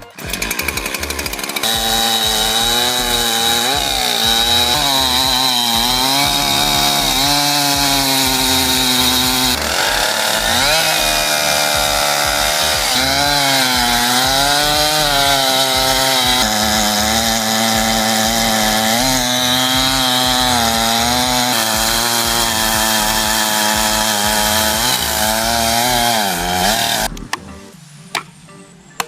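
Chainsaw engine running hard through a cut, its pitch repeatedly dropping under load and rising again. It stops sharply near the end.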